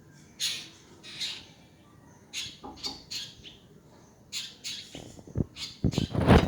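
A bird giving a series of short, harsh calls, repeated every half second to a second. Near the end come several louder low thumps and rustles, the loudest sounds here.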